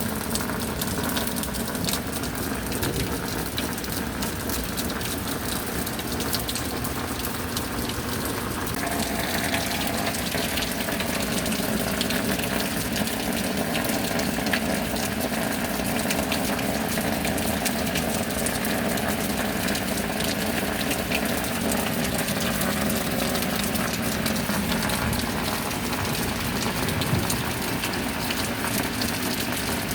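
Steady heavy rain falling, with the sound of water running. The upper hiss of the rain grows brighter about nine seconds in.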